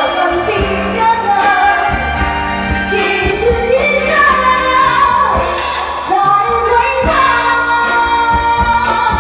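A singer holding long, sliding notes of a Chinese-language pop ballad over amplified backing music with a steady beat.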